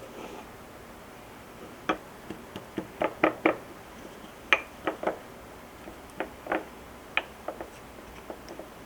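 A run of light, irregular knocks and clicks, about fifteen in six seconds, the loudest clustered around three seconds and four and a half seconds in.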